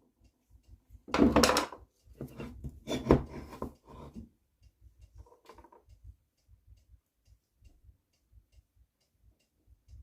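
Metal engine parts and tools handled and set down on a workbench during engine disassembly: a few clattering knocks in the first four seconds, then only faint low thuds.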